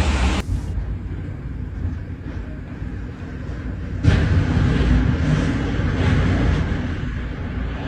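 Typhoon winds roaring and buffeting the microphone, a loud rumbling rush. The roar drops abruptly under a second in and surges again about four seconds in.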